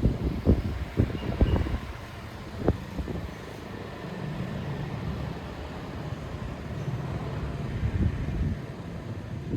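Wind gusting against the microphone, a low rumbling buffet with sharp thumps in the first second or so. It settles to a steadier rumble, then swells again near the end.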